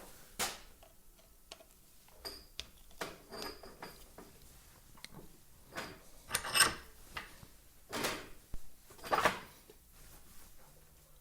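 Irregular clicks, knocks and rustles of tools and plastic parts being handled while the air cleaner is unscrewed from a Makita string trimmer. The loudest clatters come about six and a half and nine seconds in.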